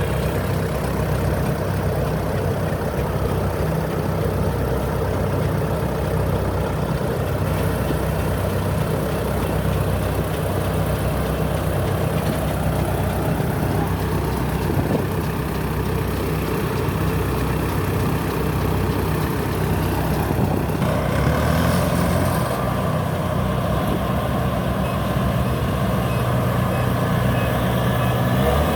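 Rice combine harvester running steadily under load as it works a muddy paddy field. Its diesel engine and threshing machinery make a continuous drone, and the engine note changes about twenty seconds in.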